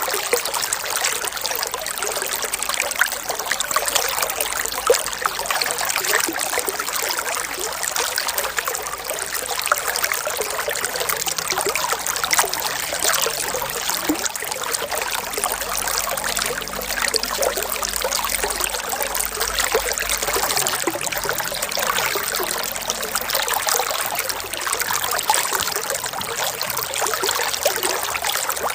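Running water trickling and splashing steadily, like a small stream flowing over stones.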